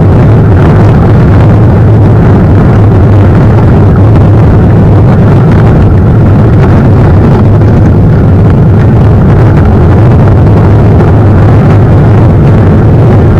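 Loud, steady low rumble of wind buffeting the camera microphone along with the mountain bike rolling over rough ground, overloading the recording.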